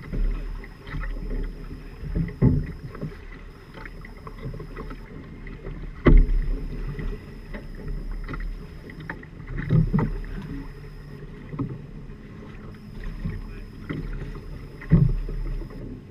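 A Firefly 26 sailing trimaran moving through water: a rough, steady wash with irregular heavy thumps every few seconds, the loudest about six seconds in, as waves slap the hull.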